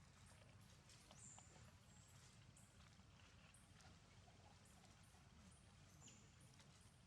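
Near silence: faint outdoor background with a low rumble and many short, very high-pitched chirps repeating every half second or so.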